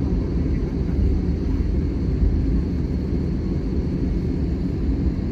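Airbus A320-200 heard from inside the passenger cabin: a steady low rumble of engines and airflow, unchanging throughout.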